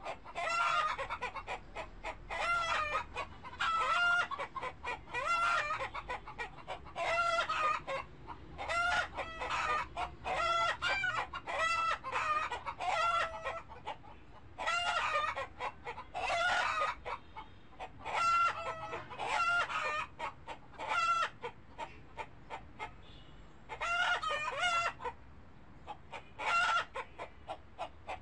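Birds calling over and over in short clusters of pitched calls, a fresh cluster every second or two, with a brief lull about three quarters of the way through.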